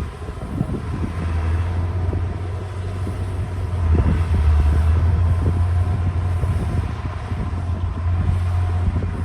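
D60 bulldozer's diesel engine running with a steady low rumble that grows louder about four seconds in, with scattered knocks and clanks over it.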